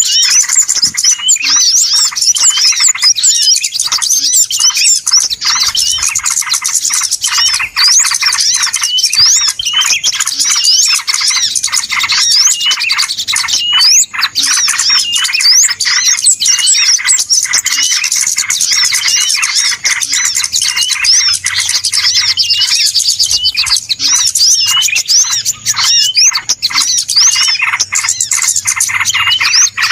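A dense, unbroken chorus of many small birds chirping and squawking at once, rapid overlapping high-pitched calls: a noisy bird-lure ('pikat ribut') recording played to draw wild birds in for trapping.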